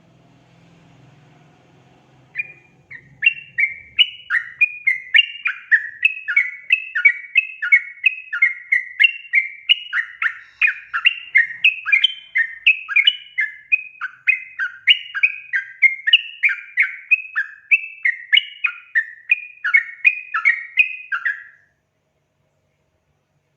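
Yellow-vented bulbul (trucukan) singing a fast, chattering run of bubbly phrases, a few a second. It starts about two seconds in and stops suddenly near the end.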